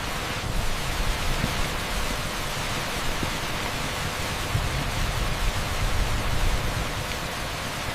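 Torrential rain pouring onto an asphalt street: a dense, steady hiss with no distinct drops or breaks.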